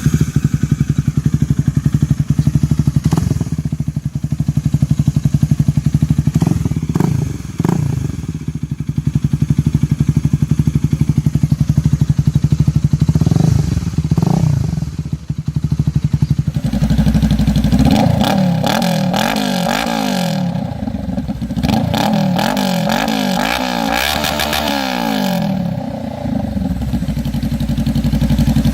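Honda Rebel motorcycle engine running through an aftermarket slip-on muffler, idling with a few short throttle blips. About two thirds of the way in the exhaust note turns deeper and rises and falls repeatedly.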